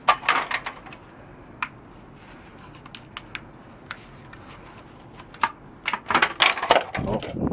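Hard plastic parts of a vacuum cleaner's dust canister being handled and pulled apart: a quick cluster of clicks and knocks at the start, scattered single ticks, then a denser clatter near the end.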